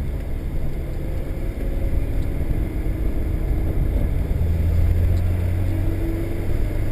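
Honda S2000's four-cylinder engine running under way, heard from inside the cabin with road noise, its note rising slowly and growing louder for a couple of seconds past the middle.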